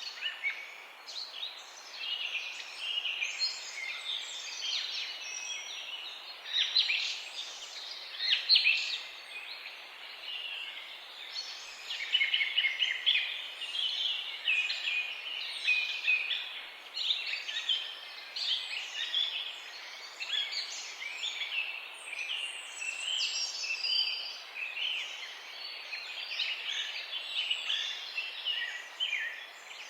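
A chorus of small songbirds, many overlapping chirps and short trills with no pause, over a faint steady hiss of background noise.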